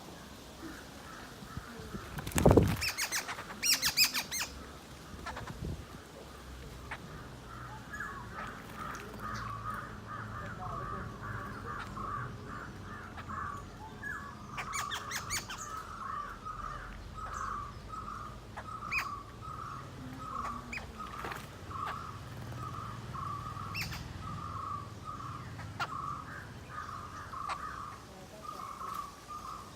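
A bird calling in a long, steady series of short repeated notes. The loudest sounds are a few sharp clatters about two to four seconds in.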